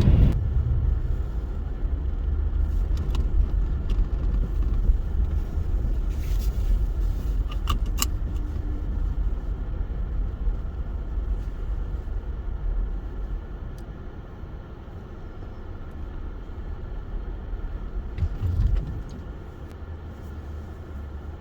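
Car driving, a steady low road-and-engine rumble that eases off about two-thirds of the way through. A few sharp clicks come near the middle, and a short low thump near the end.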